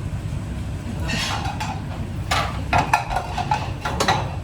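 Kitchen clatter: utensils and dishes knocking against pots and pans in a few sharp clicks and clanks, over a steady low rumble.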